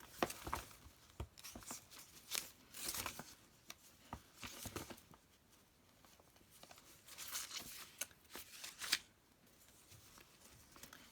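Paper craft supplies rustling and crinkling as they are handled and sorted, in several short bursts with a few light knocks.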